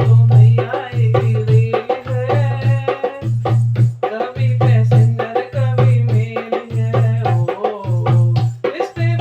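Hindi devotional bhajan music: a melody over a steady low drum beat about once a second, with rattling hand percussion.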